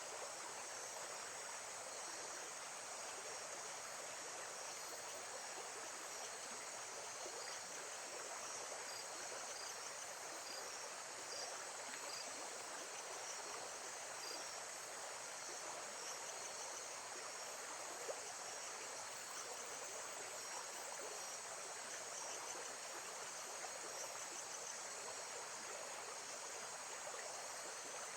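Steady rush of lake-side water, with faint, high insect chirps repeating over it and one short tick about eighteen seconds in.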